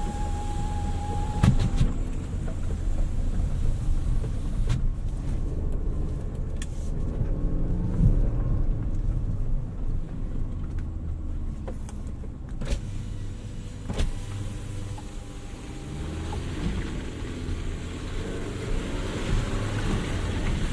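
Jeep Renegade driving slowly off-road: a steady low engine rumble, with a couple of sharp knocks from the body or suspension, one about a second and a half in and another near 14 seconds.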